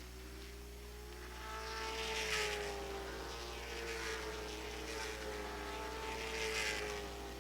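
Late model stock cars' V8 engines running laps, heard faintly at a distance; the engine note rises and falls in waves as the field comes by, swelling about two, four and six and a half seconds in.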